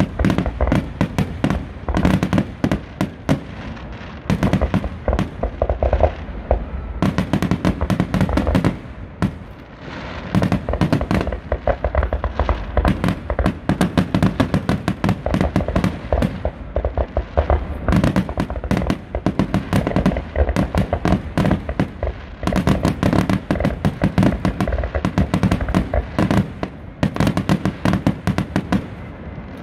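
Aerial fireworks shells bursting in a rapid, near-continuous barrage of sharp bangs and crackle, broken by a few brief lulls.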